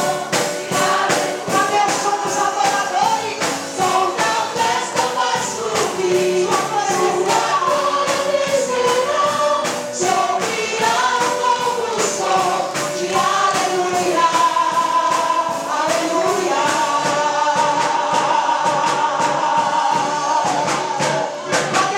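Gospel song sung by a group of voices over a band, with an even percussive beat about two to three strokes a second; the voices settle into a long held note in the last few seconds.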